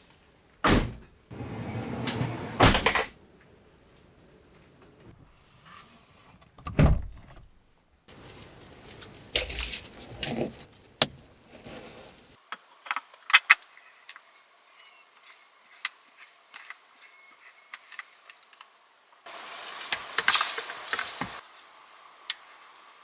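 A series of sharp clicks, knocks and clinks of small objects being handled, in separate short bursts with near-quiet gaps between them.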